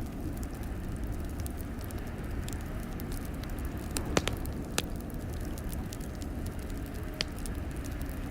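A fire crackling in a fireplace: scattered sharp pops and snaps, a couple of louder pops about halfway through, over a steady low rumble.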